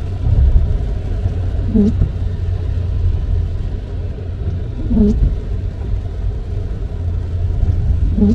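Car windshield wipers sweeping three times, about every three seconds, each pass making a short dragging squeak because the wipers are stiff on the glass. Under it is the steady low rumble of the car driving on a wet road, heard inside the cabin.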